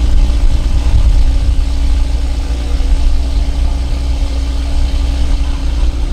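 Toyota GR Supra engine idling steadily, a constant low-pitched hum with no revving.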